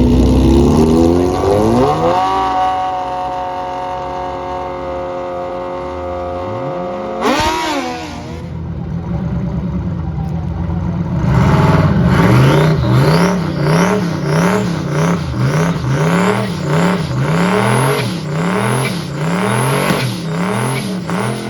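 Drag race car engine accelerating hard, its pitch climbing and then held high before dropping away sharply about seven seconds in. From about eleven seconds on, an engine is revved up and down over and over, about once a second.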